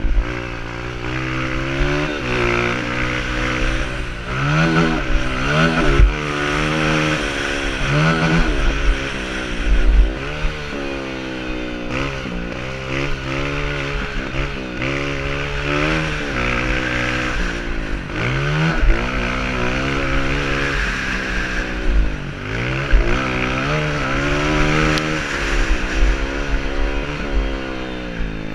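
Honda CRF230F dirt bike's air-cooled single-cylinder four-stroke engine being ridden hard, its pitch rising and dropping again and again as the throttle is opened and closed and the gears are shifted.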